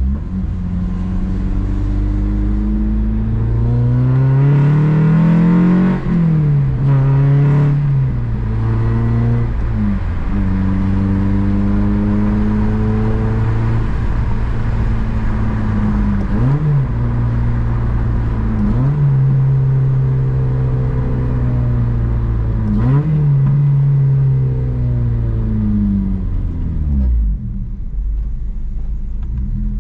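Honda Civic Si engine accelerating through the gears. The pitch rises and then drops sharply at each upshift, five or six times. Near the end the revs fall away and settle to a low steady idle.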